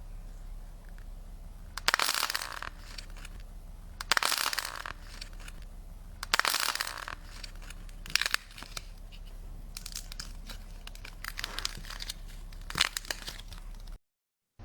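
Slime being squeezed and pressed by hand, crackling in about six short bursts over a low steady hum.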